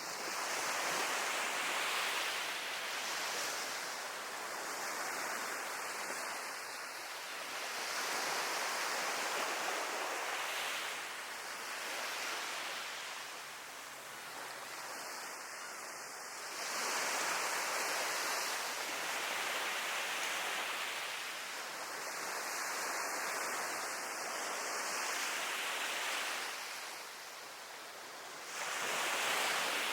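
Sea waves breaking and washing onto the shore, the surf swelling and falling back in surges every several seconds.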